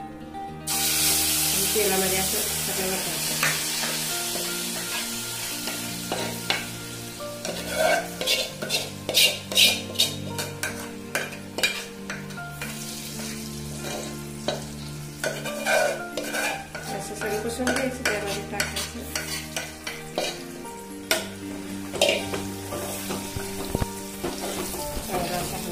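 Hot oil in a metal pot sizzling as a thick dal-and-rice batter is poured in, starting suddenly with a loud hiss about a second in and settling to a lower sizzle. Over it come repeated clicks, knocks and scrapes of a bowl and spoon against the pot as the batter is scraped in and stirred.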